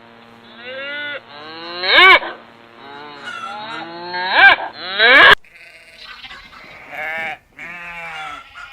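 Livestock bleating: a series of calls, each rising then falling in pitch. The loudest come about two seconds in and twice around four and a half to five seconds in. After a sudden cut about five and a half seconds in, a different, quieter recording has two more bleats.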